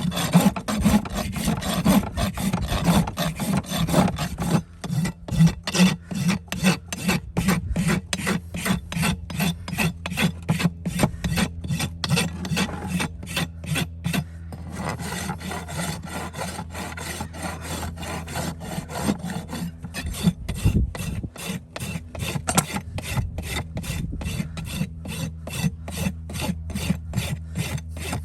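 Farrier's rasp filing a horse's hoof in repeated back-and-forth strokes, harder in the first half and lighter after about halfway, over a steady low hum.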